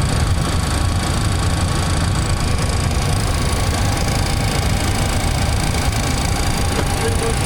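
Steady cockpit noise of a parked Boeing 737-800: an even rush of air over a deep hum, with a few faint steady tones. A brief short beep comes about seven seconds in.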